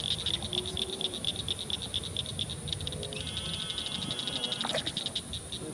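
Night insects, such as katydids or crickets, calling in a steady, fast-pulsing high chorus. A second pulsing insect call joins about three seconds in and stops near five seconds.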